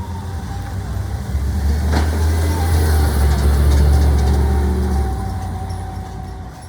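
Garbage truck's diesel engine running with a heavy low rumble that builds to its loudest mid-way and then fades, with a sharp knock about two seconds in and a faint steady whine over the engine.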